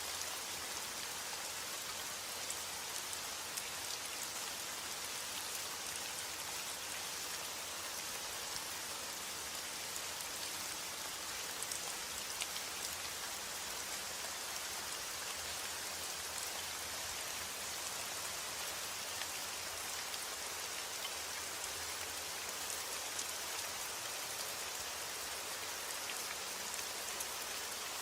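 Steady heavy rain falling: an even hiss with scattered sharper ticks of individual drops.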